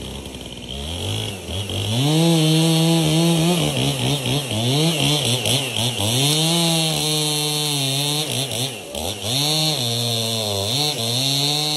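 Echo chainsaw running at high revs, its pitch dipping and climbing back again and again.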